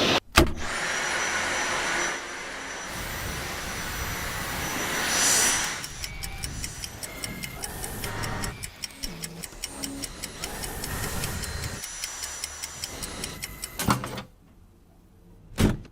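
Cordless stick vacuum cleaner running, with a fast run of sharp ticks through the middle. The sound changes abruptly several times and cuts out briefly near the end.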